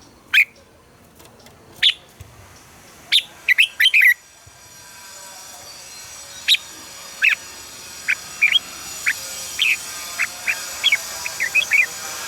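Red-whiskered bulbul giving short, sharp chirping call notes, some single and some in quick runs of two to four. From about four seconds in, a steady high-pitched hiss rises behind the calls.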